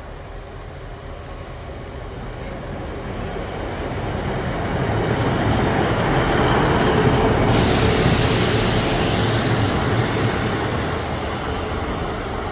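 A train running into the station, growing steadily louder as it approaches. About halfway through a sudden hiss starts and fades over a few seconds.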